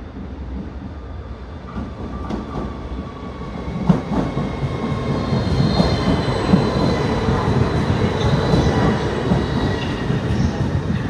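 Electric passenger train running along the station tracks, its wheels clattering over the rail joints, growing louder from about four seconds in.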